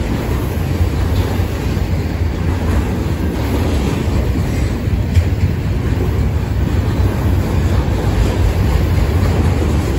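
Enclosed autorack freight cars rolling past close by: a steady, loud low rumble of steel wheels on rail, with a brief clank a little after five seconds in.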